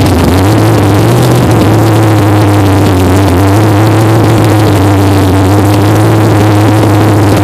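Big-block Chevrolet V8 in a 1933 roadster idling loudly and steadily on its first start-up.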